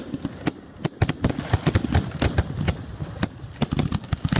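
Aerial fireworks shells bursting in quick succession: a dense, irregular run of sharp bangs and cracks, several a second.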